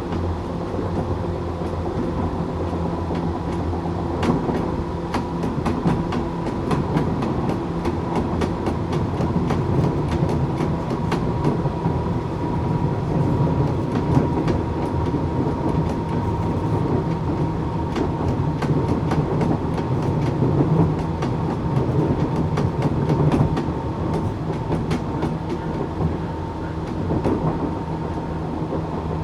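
Tokyu 8500 series electric train with Toyo Denki traction motors running at speed: steady rumble of motors and wheels, a thin high whine holding near one pitch and dipping slightly near the end, and a quick run of clicks from the rail joints.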